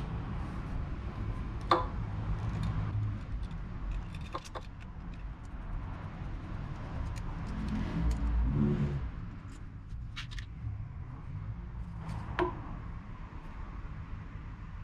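Yamaha SR400's air-cooled single-cylinder four-stroke engine running with a low rumble, rising briefly in pitch and level a little past halfway. A few sharp clicks sound over it.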